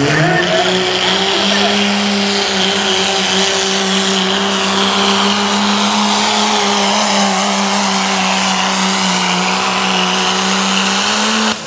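A diesel Dodge Ram pulling truck's engine running flat out under load, dragging the pulling sled. The engine pitch climbs slightly at the start and then holds almost steady, with a high whine above it. The sound cuts off abruptly near the end.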